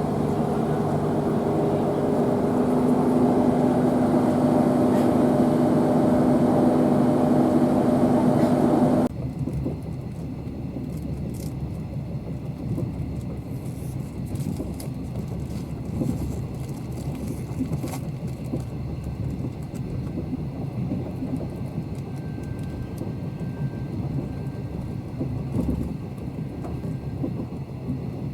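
A train running, with a steady hum and several steady tones over its noise. About nine seconds in, this cuts off suddenly to a quieter, uneven low rumble.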